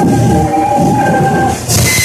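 Live harsh noise music: a loud, dense rumbling drone with steady feedback-like tones held over it. A little after halfway these tones drop out, and a brief dip gives way to a sudden harsh, bright hiss of noise.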